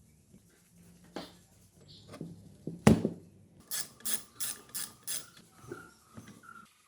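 Hand-tool work on a part in a workshop: a few light clicks, one sharp knock about three seconds in, then five quick, evenly spaced rasping strokes, like a file or stiff brush drawn across the surface.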